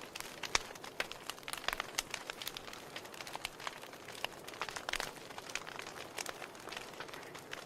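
Wood fire in a fireplace crackling: irregular sharp pops and snaps from the burning logs over a steady hiss.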